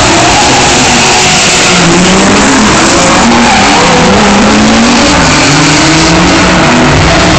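A drifting car's engine revving up and down over the hiss of sliding, squealing tyres, loud and steady throughout.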